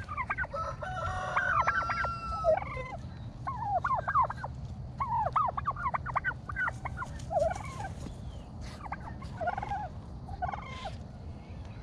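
Domestic turkeys gobbling: repeated bursts of quick, rattling call notes, one burst after another.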